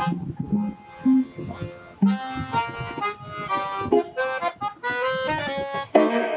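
Accordion and guitar playing music together, a run of quick notes with a loud, full chord near the end.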